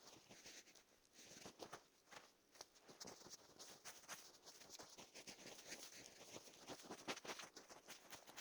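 Wood campfire crackling faintly, with many small irregular pops and snaps that come thicker in the second half.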